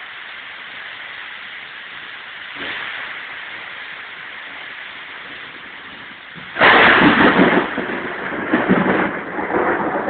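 Steady rain, then about six and a half seconds in a sudden loud crash of thunder that keeps rumbling.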